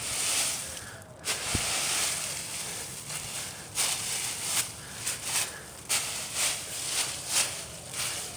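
A rake dragging through dry leaves, spreading them out: long scraping sweeps at first, then quicker strokes about two a second.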